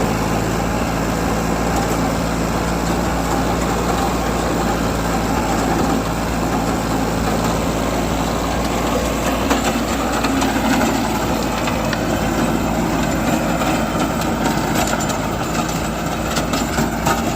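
New Holland tractor engine running steadily, with faint rattles in the last few seconds.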